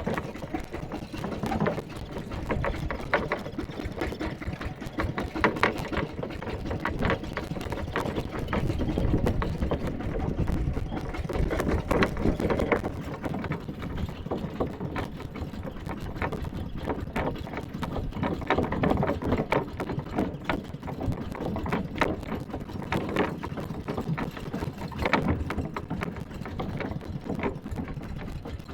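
Mini tractor engine running with a fast, rattling chug while the tractor is driven, its body and load clattering throughout.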